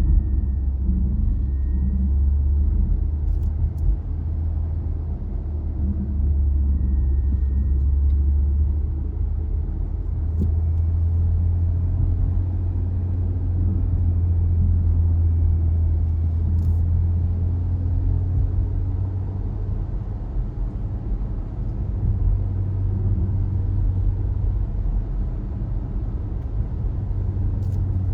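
Steady low rumble of a car driving, engine and road noise sitting deep in the low end, with a few faint ticks.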